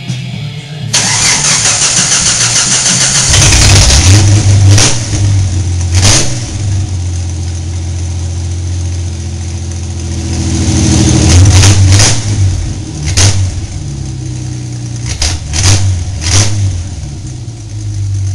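Jeep Comanche engine with no exhaust fitted, cranking on the starter for about two seconds and catching about three seconds in, then running loud and open with several sharp revs and a longer run-up in revs a little past the middle.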